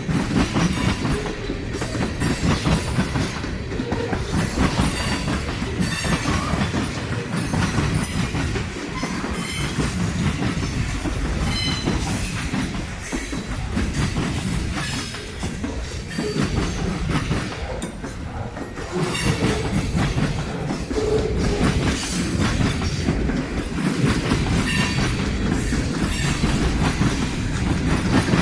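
A train rolling past close by, its wheels clacking steadily over the rail joints, with a few brief, faint wheel squeals.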